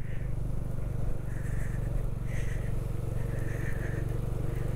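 Bajaj Dominar 400's single-cylinder engine running steadily under way at low road speed.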